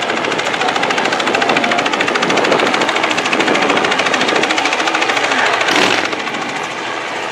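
Helicopter passing overhead, its rotor blades beating in a fast, even thudding. The beat is loudest just before six seconds, then fades.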